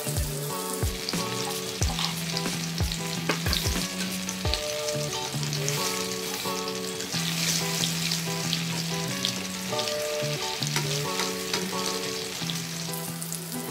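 Eggplant omelette deep-frying in a wok of hot oil, sizzling steadily, with a spatula being pushed through the oil to turn it.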